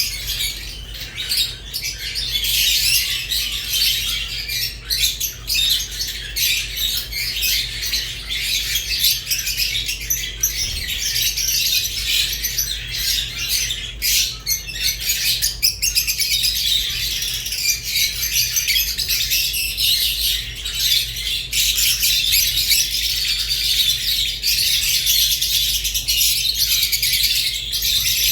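Rose-faced and Fischer's lovebirds chattering together: dense, unbroken high twittering and chirps, with sharp clicks all through it.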